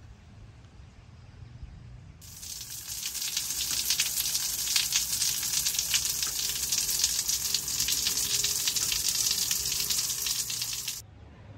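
Food frying in a pan, a steady sizzle with dense crackling and spitting. It starts suddenly about two seconds in and cuts off sharply near the end.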